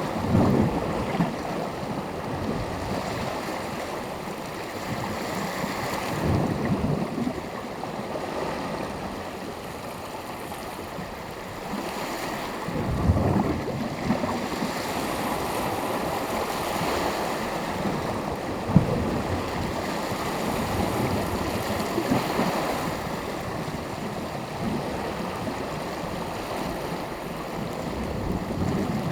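Sea waves breaking and washing on the shore in surges every several seconds, with the continuous hiss of surf between them. A few sharp splashes stand out, one about thirteen seconds in and one near nineteen seconds.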